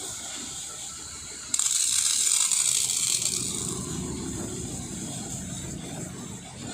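A pressure washer's water jet comes on suddenly about one and a half seconds in with a loud hiss, strongest for about two seconds, then easing into a steadier spray.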